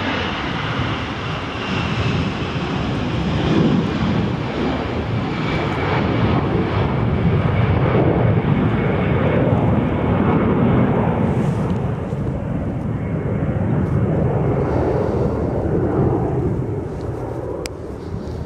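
An airplane's engines running as it passes, a heavy rumble that swells through the middle and eases off near the end. A high whine slides slowly down in pitch over the first several seconds and fades.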